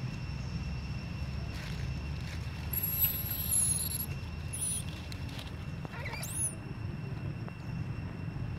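Newborn baby monkey squealing: a very high, thin call held for over a second about three seconds in, a short one soon after, and a quick rising squeal about six seconds in.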